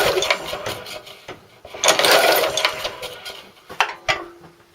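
Recoil pull start of a 3.5 hp Briggs & Stratton mower engine pulled twice, the rope rasping out and the engine turning over freely without firing, its spark plug out for a spark test. A couple of sharp clicks follow near the end.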